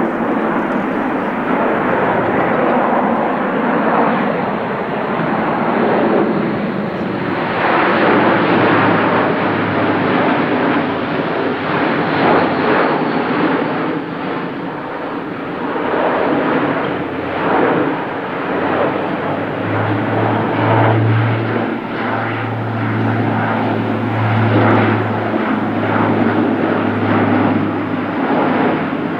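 Airbus A400M's four turboprop engines running loud, a wide roar of engine and propeller noise over a steady low propeller hum that grows stronger in the second half.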